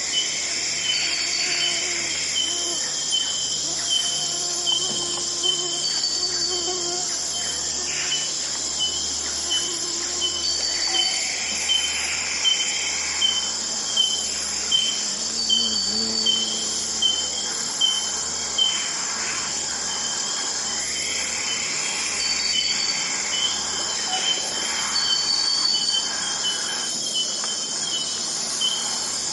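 Forest ambience: a steady, high-pitched insect chorus, with a short chirp repeating at an even pace about one and a half times a second and a few longer calls now and then.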